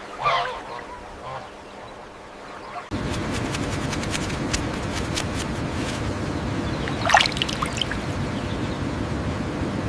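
Geese honking briefly at the start, then a quieter stretch. About three seconds in, a steady rush of flowing water like a stream cuts in, with a brief sharper sound about seven seconds in.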